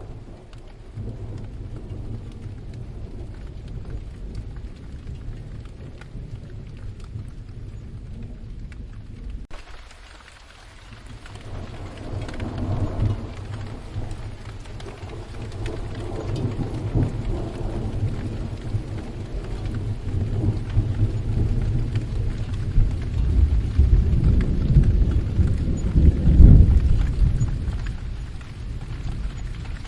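Steady rain with low rolling thunder. The rumble dips briefly about ten seconds in, then swells into a long peal that is loudest near the end before fading.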